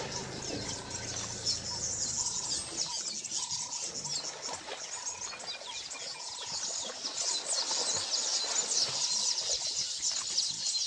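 A chorus of many small birds chirping continuously. A low hum is heard under it and stops about three seconds in.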